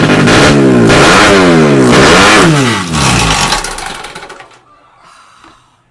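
Drag-racing motorcycle engine revved hard several times, its pitch rising and falling, then dying away about four seconds in.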